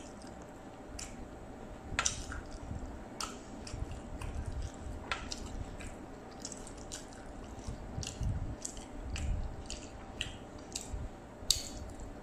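Close-up eating sounds: a person chewing fried jengkol and fried rice vermicelli, eaten with the fingers, with scattered wet clicks and smacks and a couple of soft low thumps past the middle.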